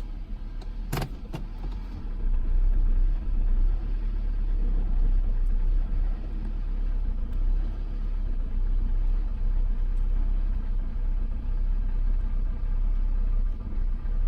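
A 2006 Toyota Camry engine runs at low rpm with an uneven, flickering rumble: the misfire that shows up only when the rpm is low. There is a brief click about a second in, and the engine gets louder about two seconds in.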